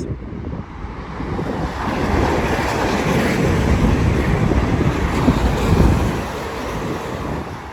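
Eurostar high-speed train running through the station without stopping: a loud rush of wheel, air and traction noise that builds over the first couple of seconds, is loudest in the middle and eases off after about six seconds, with the train's slipstream buffeting the microphone.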